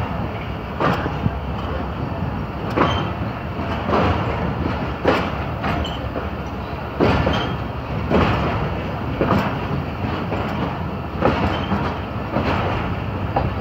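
Pakistan Railways passenger coach pulling out of a station, heard from its open door: a steady rumble of wheels on the track with a sharp clunk from the wheels crossing rail joints and points about once a second.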